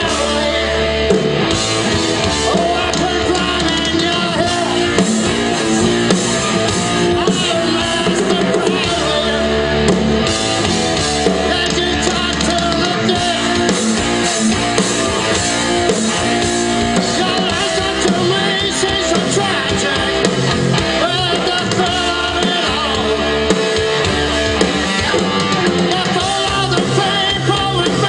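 Live rock band playing a fast song: drum kit, electric guitars and bass under a singer's vocals, loud and steady throughout.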